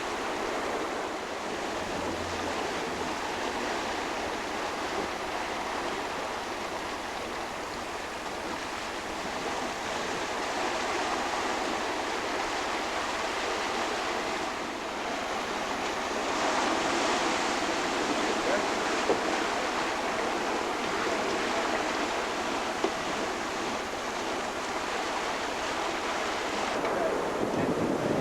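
Steady rush of water along a sailing yacht's hull as it sails in about 10–11 knots of wind, swelling a little louder around the middle.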